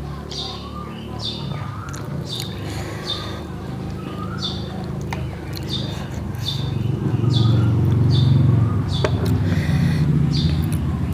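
A bird chirping over and over, short high chirps about once a second. Under it, a low rumble swells and is loudest a little past the middle.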